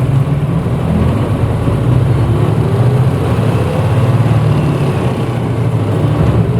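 Diesel engine of a 1994 Hino Blue Ribbon U-HT2MPAA city bus, heard from inside the passenger cabin, running at high revs under load with a steady low drone.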